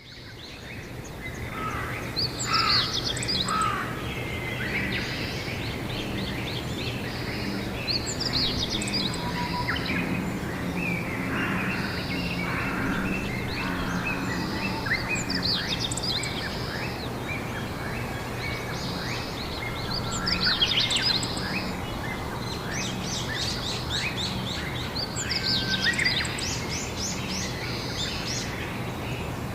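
A chorus of several songbirds chirping and trilling, with clusters of quick calls every few seconds over a steady low hum. The sound fades in during the first second or two.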